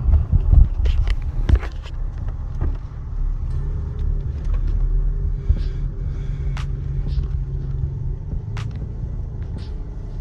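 Car running, a steady low rumble with a few sharp clicks scattered through it.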